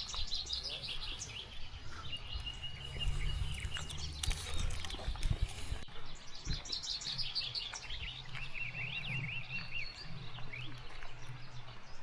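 Songbirds chirping in repeated short phrases, with a quick run of chirps near the end, over a low, uneven rumble.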